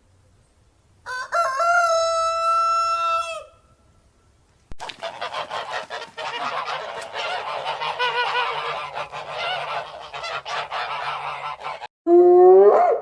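Fowl calling: one long, steady call, then about seven seconds of many overlapping calls from a flock, and a short single call near the end.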